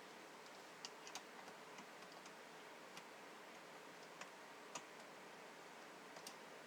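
Faint, scattered small clicks and taps over a steady hiss, about ten in all, from hooking up an RF wattmeter's coax connectors.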